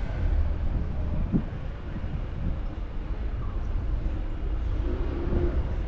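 Steady low rumble of outdoor street background, with a few faint distant voices.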